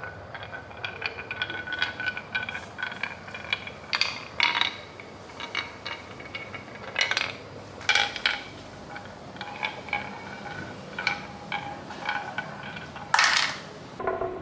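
Marbles clicking and clattering along a marble run: an irregular patter of sharp clinks with a short ringing tone, with louder knocks about 4, 8 and 13 seconds in.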